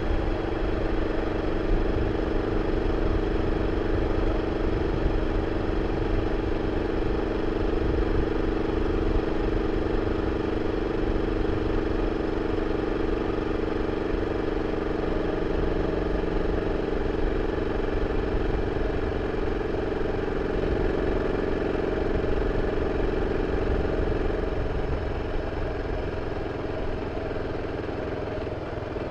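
BMW F 650 CS Scarver's single-cylinder engine running steadily through its original exhaust, its note easing off and getting quieter near the end.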